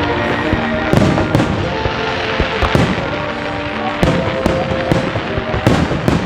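Fireworks display bursting overhead: about nine sharp bangs at irregular intervals, with the show's choreographed music playing over public loudspeakers underneath.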